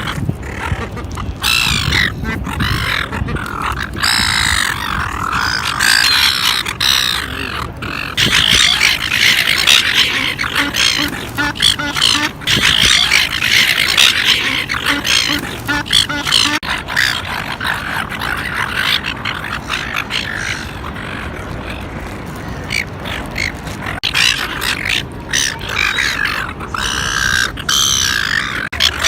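A flock of small birds chattering and chirping at once, many calls overlapping continuously.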